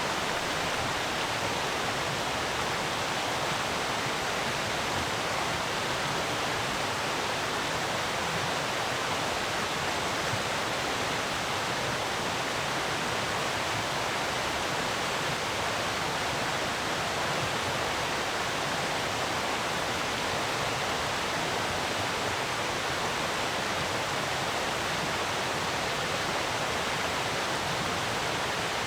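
Forest stream flowing steadily, a continuous even rush of water with no change in level.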